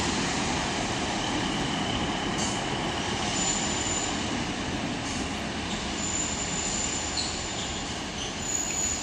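Class 153 and Class 143 Pacer diesel multiple units moving along the platform: steady rumble of the train with short, high-pitched wheel squeals coming and going several times.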